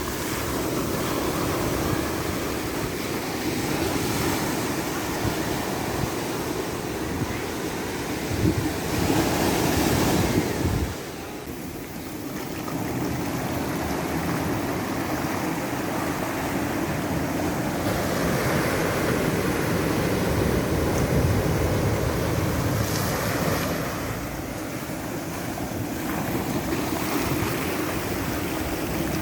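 Ocean waves rushing and washing onto the shore in a continuous surf noise. The surf swells to its loudest about a third of the way in, drops off suddenly, then builds again.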